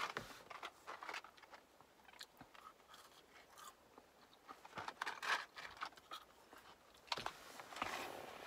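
Close-up mouth sounds of someone chewing and biting french fries, quiet, with small wet clicks and a few louder rustling bursts in the second half.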